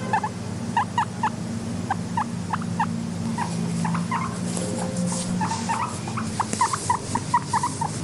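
Guinea pig giving short, rising squeaks, about two or three a second, over a low steady rumble.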